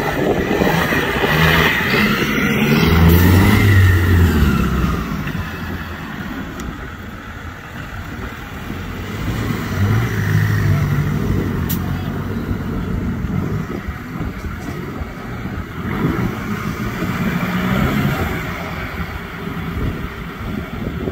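Off-road competition 4x4's engine revving up and easing off in three surges, its pitch rising and falling each time, over steady rough noise.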